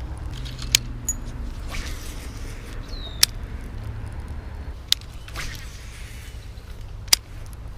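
Wind rumbling on the microphone, with four sharp clicks spread through it, two soft swishes, and a short falling whistle about three seconds in.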